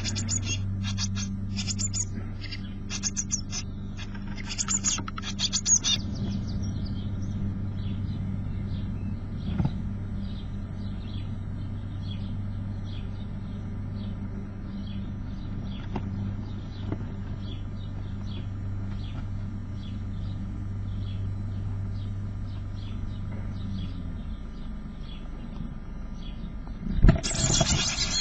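Blue tit nestlings calling in a nest box: loud bursts of begging calls at the start, then a steady run of soft repeated chirps, and another loud burst of begging near the end as they gape. A steady low hum runs underneath and stops a few seconds before the end.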